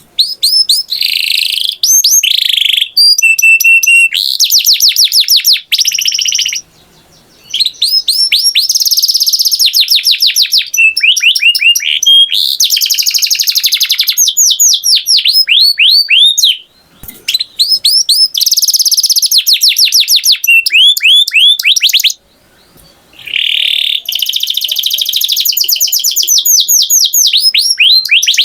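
Canary singing: loud phrases of fast repeated high chirps and trills, each phrase a few seconds long, with brief pauses between them.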